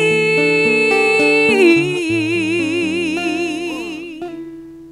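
A woman singing, holding the word "así" as one long note with vibrato that steps down in pitch about two seconds in and then fades away, over plucked guitar accompaniment.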